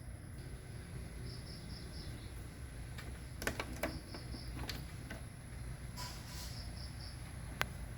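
A cricket chirping in short trills of three or four pulses over a low steady hum, with a few sharp clicks from handling tools or parts about halfway through and once near the end.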